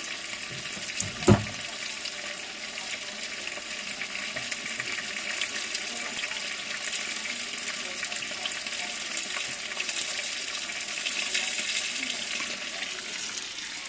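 Food frying in hot oil in a pan: a steady sizzle, with one sharp knock about a second in.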